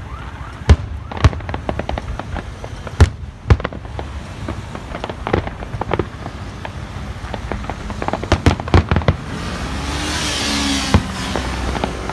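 Aerial firework shells bursting with loud bangs, four big ones in the first few seconds. A quicker run of cracks follows, then a spell of dense crackling hiss near the end.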